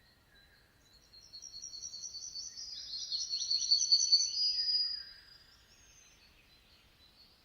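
A songbird singing a rapid trill of high, quickly repeated notes that grows louder, stops about five seconds in, and sits over faint chirping from other birds.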